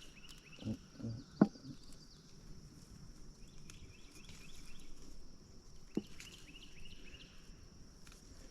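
Outdoor summer woodland-edge ambience: a steady high insect drone with bursts of bird chirping every few seconds. A few soft thuds come early, and there are two sharp snaps, the louder about a second and a half in and another near six seconds.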